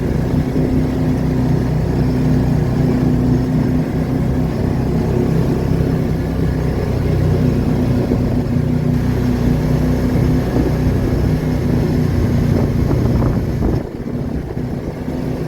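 Car driving, its engine running with a steady hum under rumbling tyre and wind noise; the level dips briefly near the end.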